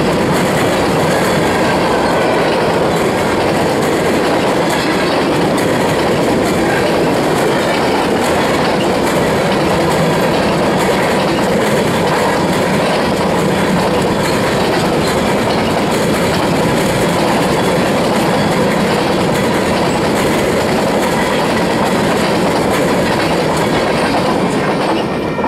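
Steel wheels of a freight train's covered hopper cars rolling past on the rails, a loud steady rolling noise with faint high squealing tones in it. The noise begins to fall off at the very end as the last car goes by.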